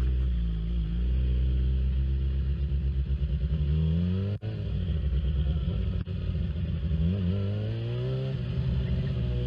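Motorcycle engine running, revved twice with the pitch rising: once about four seconds in and again near the end.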